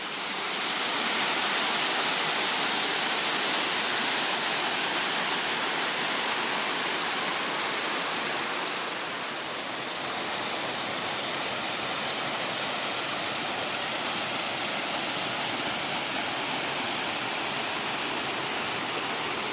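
Waterfall: water rushing down a high drop in a steady roar of noise, swelling over the first second and then holding even.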